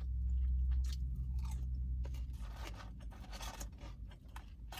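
A person chewing a mouthful of steak sandwich with fried potato close to the microphone: irregular soft crunches and wet mouth clicks over a steady low hum.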